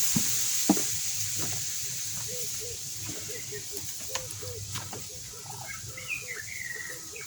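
Birds calling around a dam: short repeated low calls from about two seconds in and higher chirps near the end, over a steady high hiss. A few sharp knocks in the first seconds.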